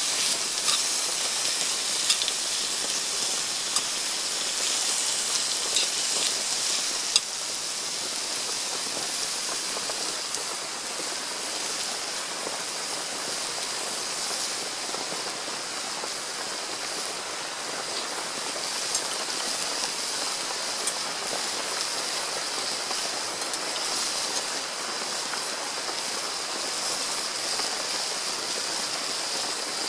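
Rain falling steadily, with a few sharp ticks in the first seven seconds.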